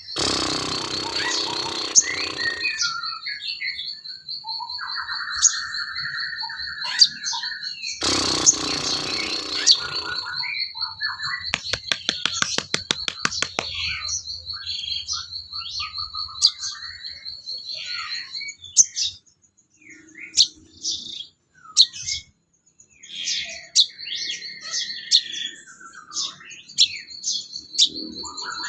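A recorded songbird tutor track of mixed calls and songs. A high, fast pulsing trill holds for most of the first twenty seconds under assorted chirps, whistles and chatter. A run of rapid clicks comes around the middle.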